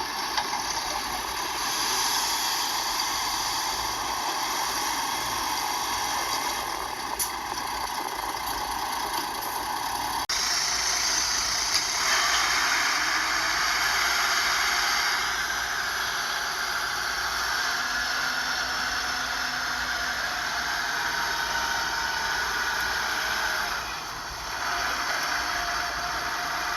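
Diesel engine of heavy earthmoving machinery running steadily, its sound stepping up and brightening about ten seconds in.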